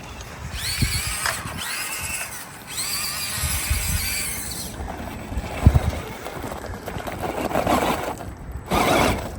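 Small electric motor of an RC rock crawler whining as it is throttled, rising in pitch as it spins up, twice in quick succession, with low rumbling underneath.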